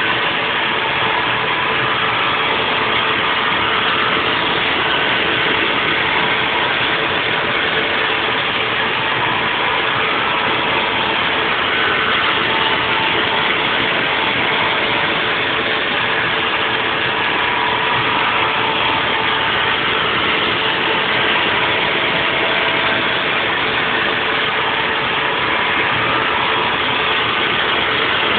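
Haas VF4 vertical CNC mill machining a block, its spindle and cutter running at a constant level with a steady hum.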